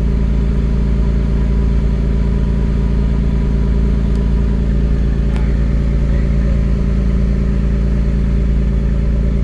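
An engine running steadily at an even pitch, with a deep low rumble beneath it.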